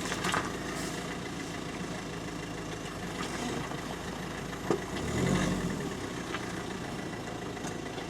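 Steady drone of aircraft engines, with a sharp click a little before halfway and a brief low rumble just after it.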